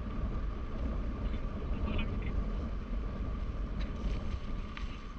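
Motorcycle running on the move, with a steady whine and heavy wind rumble on the microphone.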